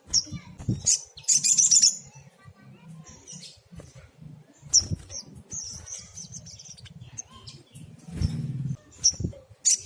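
A sunbird singing: sharp high chirps and short twitters, with a dense fast twittering burst about a second in. Low dull thuds sound now and then underneath.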